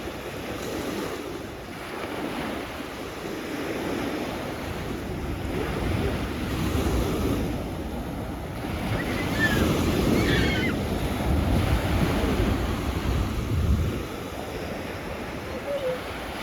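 Sea waves washing on the shore, swelling louder in the middle before easing off, with wind buffeting the microphone. A few short high chirps are heard about ten seconds in.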